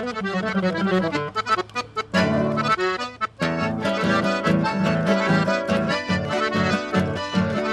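Chamamé music led by an accordion: falling runs at first, then from about two seconds in a steady rhythmic accompaniment underneath the melody.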